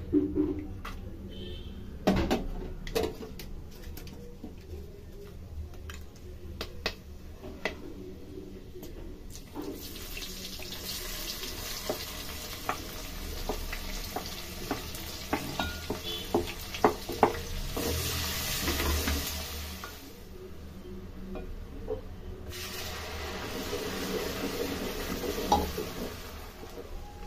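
Whole spices and chopped onion frying in hot oil in a steel pot, with a steady sizzling hiss that starts about ten seconds in, drops away for a couple of seconds near the end, then comes back. Before the sizzle, and now and then through it, a wooden spoon and a glass bowl knock and clink against the pot.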